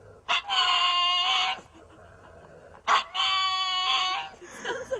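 An animal giving two long, high, steady-pitched calls, each a little over a second long, the second starting about three seconds in.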